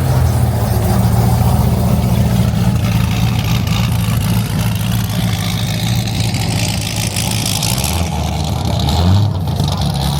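A car engine running loud and low, fairly steady, swelling briefly near the end.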